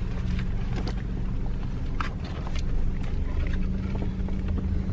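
Car interior noise while driving: a steady low engine and road drone heard from inside the cabin, with a few faint clicks.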